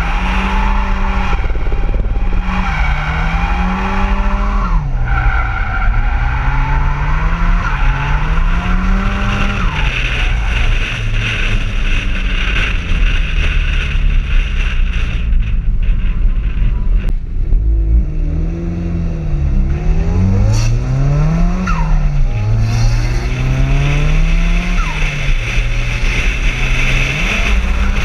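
Nissan 200SX S14's turbocharged SR20DET four-cylinder engine under hard driving, heard from the cockpit, its revs rising and falling again and again through a drift run, with tyres squealing. The revs ease off for a few seconds near the middle, then climb and drop sharply again.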